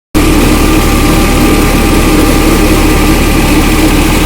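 Tractor engine running steadily, driving a paddy husking and polishing machine, the engine and mill machinery sounding together as one continuous hum.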